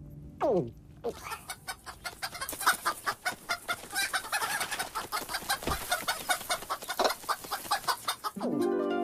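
Cartoon sound effects: a falling glide about half a second in, then a long run of rapid chicken clucking. Music comes in near the end.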